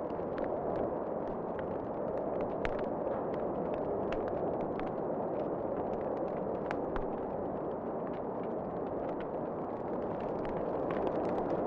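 Wood fire crackling in a fireplace, with scattered sharp pops and snaps at irregular intervals over a steady rushing of wind.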